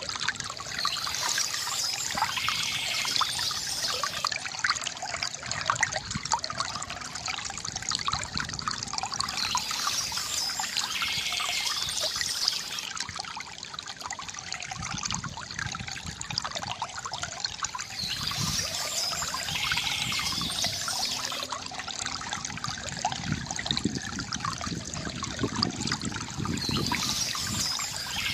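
River water gurgling and trickling over stones, steady with many small irregular splashes.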